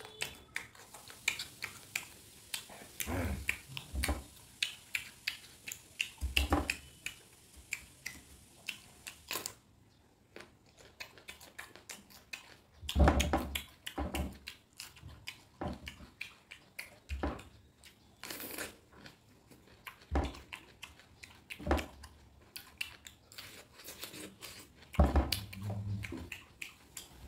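Close-miked chewing and biting of raw fruit, mostly a mature cucumber, with many short crunches and wet mouth sounds and several louder bites. Near the end, a spoon digs into a half watermelon.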